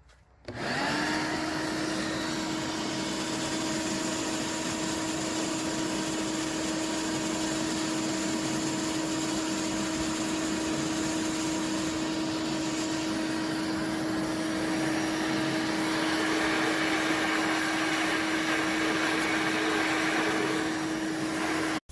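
Vacuum cleaner switched on about half a second in, spinning up to a steady whine with rushing air as it vacuums the car's interior; it runs without a break and stops abruptly near the end.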